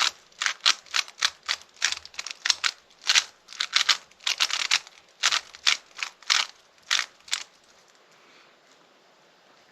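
A Rubik's cube being turned by hand: a run of about twenty quick plastic clacks, two or three a second, stopping about seven seconds in. This fits a scramble before a solve.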